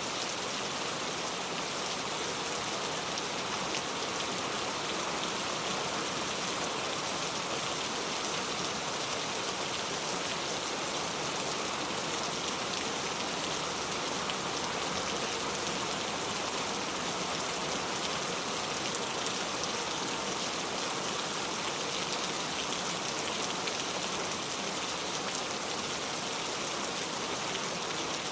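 Steady rain falling, an even hiss of drops that does not change in strength.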